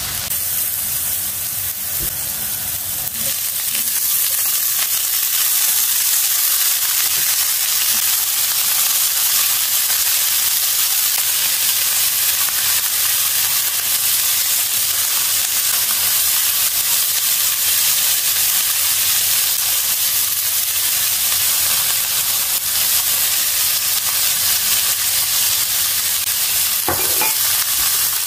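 Sliced mushrooms, later joined by green olives and chilli, frying in a pan: a steady sizzle that swells a few seconds in and then holds even. A couple of light knocks come through near the end.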